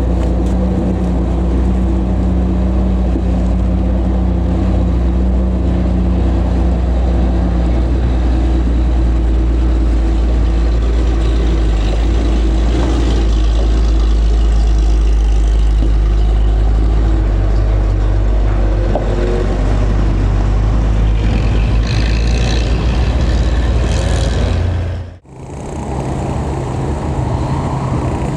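Old Toyota DA100 truck engine running steadily with a deep, even note. About 25 seconds in, the sound cuts out for a moment and comes back with a somewhat higher engine note.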